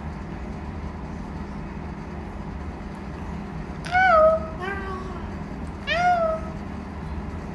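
A four-month-old baby squealing in three short high-pitched calls, each rising then falling in pitch, about four seconds in and again near six seconds.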